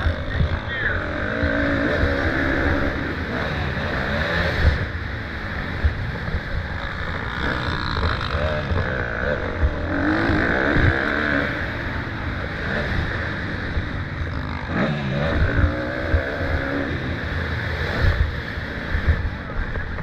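Motocross dirt bikes racing on track, their engines revving up and falling off again and again as they accelerate and shift, with wind buffeting the microphone.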